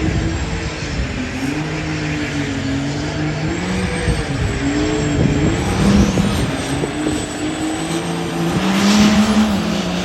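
High-horsepower diesel truck engine running hard under load, its pitch repeatedly rising and falling.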